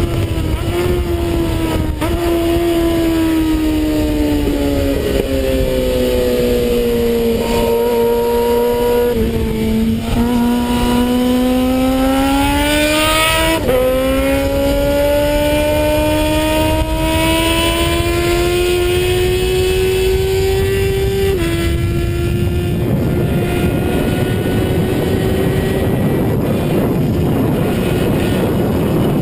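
Suzuki Bandit 650 S inline-four engine heard from on board at track speed over heavy wind rush on the microphone. The engine note sinks slowly over the first few seconds, then climbs under acceleration. It drops sharply twice at upshifts, about halfway and about two-thirds of the way through.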